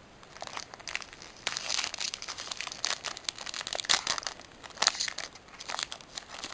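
Foil wrapper of a Pokémon trading card booster pack being torn open and crinkled in the hands, an irregular run of crackling rustles with a few sharper rips.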